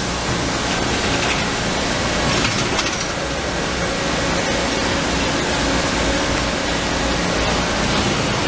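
Amada AC 2510NT CNC turret punch press running: a steady mechanical hum and hiss with no clear separate strokes standing out.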